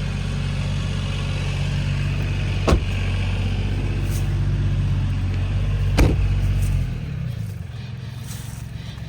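A vehicle engine idling steadily, its hum dying away about seven seconds in, with two sharp knocks around the three- and six-second marks.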